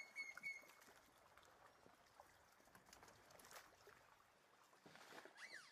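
Near silence outdoors with faint birdsong: a few short high notes at the start, and a run of rising-and-falling chirps near the end.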